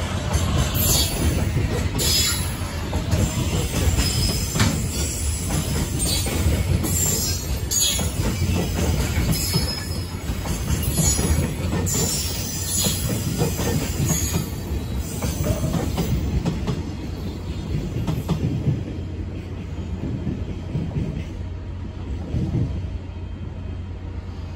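Freight train container wagons rolling past, a heavy low rumble with the wheels clacking and squealing in repeated high bursts. The squeals stop and the rumble fades after about 18 seconds as the last wagon goes by.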